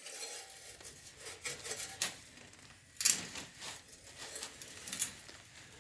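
Light knocks, clicks and rustling as parts are handled while working on the tractor, with sharper knocks about two, three and five seconds in.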